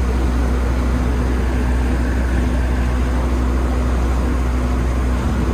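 Passenger boat's engine running steadily under way, heard on board: a deep, even drone with a steady hum over it and a hiss of noise.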